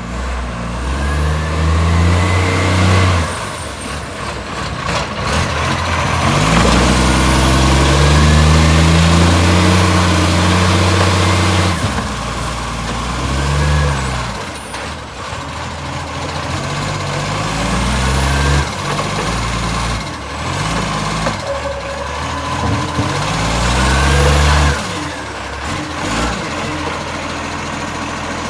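Garbage truck's engine revving up and dropping back several times, blasting loudly through a leaking exhaust.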